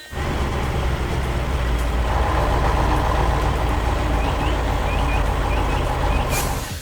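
Heavy truck engine running steadily, growing fuller about two seconds in. A few short high chirps come near the end.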